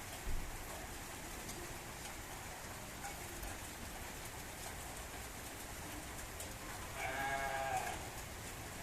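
Steady rain hiss with a short low thump just after the start. About seven seconds in, an animal gives one wavering call lasting about a second.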